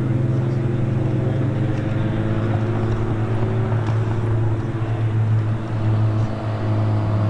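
Engines of two drift cars, a Nissan 200SX S14 and a BMW E30, running through a tandem run: a steady low engine drone.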